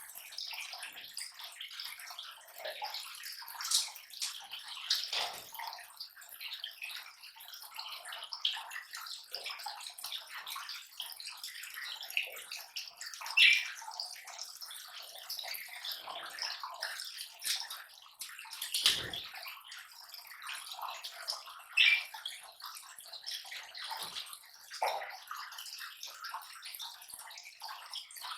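Lovebirds tearing and chewing palm leaves: continuous crackling and rustling of leaf fibre, with scattered sharper crackles and a dull bump about two-thirds of the way through.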